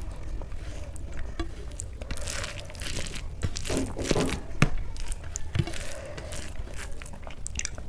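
A person eating: chewing and biting food, with scattered short mouth clicks and small crunches, one sharper click about halfway through.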